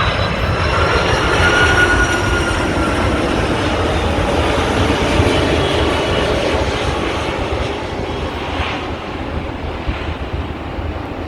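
Heavy wide-body jet airliner on landing approach passing close by, its engines making a loud, dense noise with a high whine that falls slowly in pitch. The noise fades gradually over the second half.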